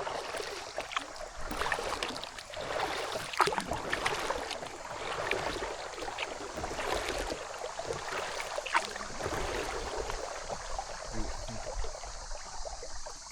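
Kayak paddling: short splashes and drips of the paddle blades entering and leaving the water, many times over a steady wash of moving water.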